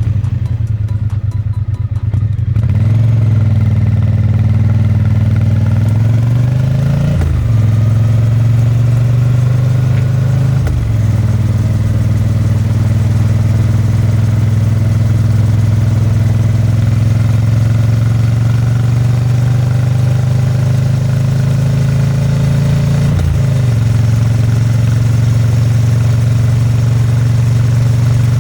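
The exhaust note of a 2022 Triumph Bonneville T100's 900 cc parallel-twin engine while riding. About two and a half seconds in, the bike pulls away and the note steadies. Three times the pitch drops sharply and climbs again as it shifts up a gear.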